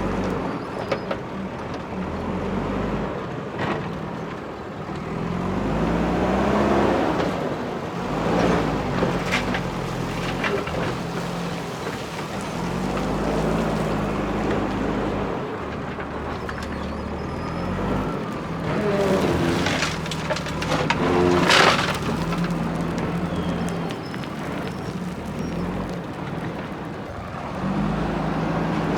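JCB backhoe loader's diesel engine running and revving up and down as it works, with scattered knocks and rattles and a loud clatter about three-quarters of the way through.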